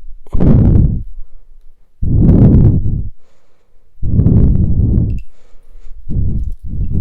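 Heavy breaths blowing straight onto a close microphone, five loud gusts of rumbling wind noise, each about a second long and coming every one and a half to two seconds.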